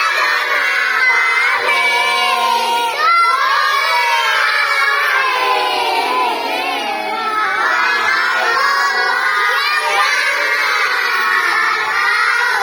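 A group of children singing a song together, many voices at once, loud and continuous.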